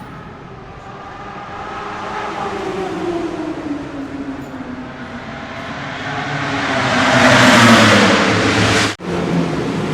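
Two-stroke racing motorcycle engine running, its pitch sliding steadily down as it grows louder and rougher to a peak about three-quarters of the way through. The sound drops out sharply for an instant near the end, then carries on quieter.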